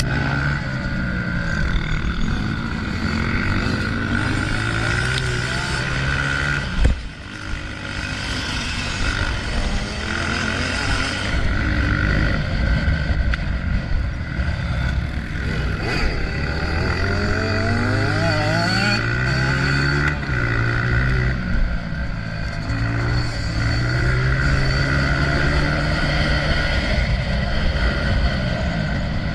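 Honda CRF125F dirt bike's single-cylinder four-stroke engine under hard riding, its pitch climbing and dropping again and again with throttle and gear changes, over a heavy low rumble. A sharp thump about seven seconds in, followed by a brief dip in the engine sound.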